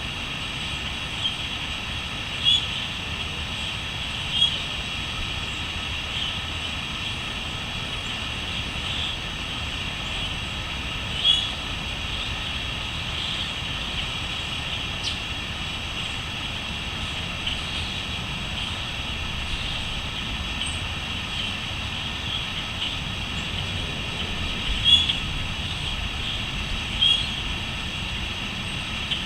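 Steady high-pitched chorus of crickets, with short louder chirps standing out every few seconds, over a low rumble.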